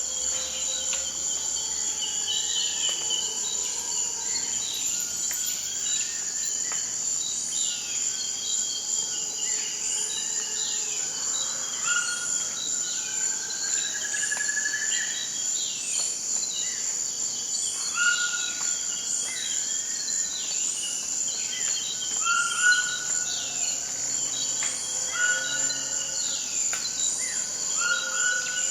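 Forest ambience: a steady high insect drone, with a short high chirp repeating about every second and a half. Several birds call and sing over it in whistled and falling notes.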